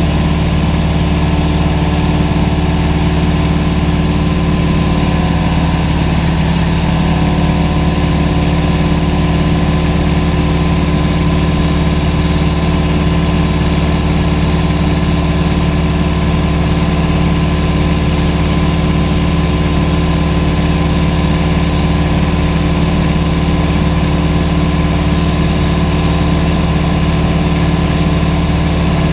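Propeller aircraft engine running with a steady, unchanging drone.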